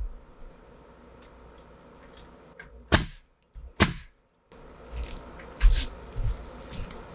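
Two sharp cracks just under a second apart, about three seconds in, followed by fainter knocks and thuds.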